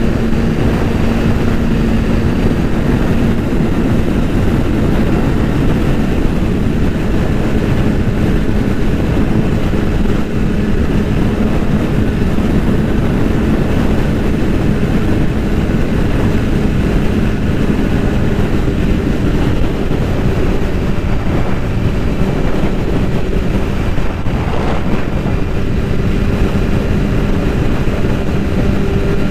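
BMW S1000RR's inline-four engine running at steady, fairly high revs over a dense low rumble, its pitch holding nearly constant and rising slightly near the end.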